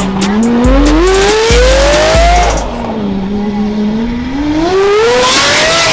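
Car engine revving hard as it accelerates, its pitch climbing steadily, dropping back as if shifting gear, then climbing again near the end, over a deep music bass line.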